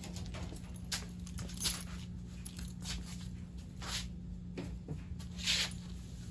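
Scattered clicks and rustles of plastic TV parts being handled during disassembly, over a steady low hum.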